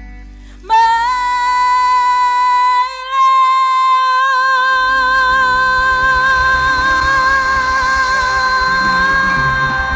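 A female singer holds one long, high note with a slight vibrato over her backing track. The band's low end drops out briefly and comes back with a pulsing beat about halfway through.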